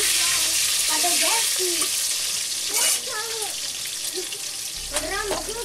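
Vegetable pieces sizzling in hot oil in a steel wok as they are stirred. The sizzle is loudest for the first three seconds, then quieter.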